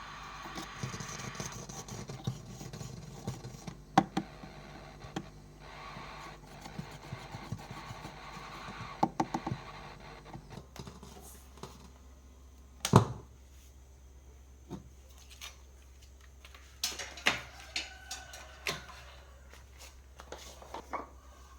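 Scattered clicks and knocks of parts and tools being handled on a workbench, over a steady low hum; the loudest knock comes about halfway through.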